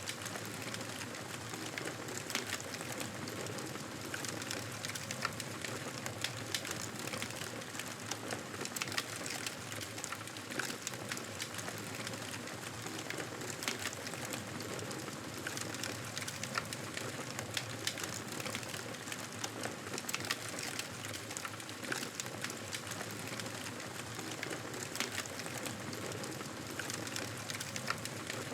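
Wood fire crackling steadily: a soft hiss with many small, sharp pops and snaps at irregular intervals.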